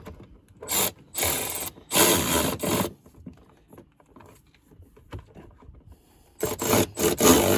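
Cordless electric ratchet running in short bursts, driving in the winch's mounting bolts: three brief runs in the first three seconds, then a longer run near the end.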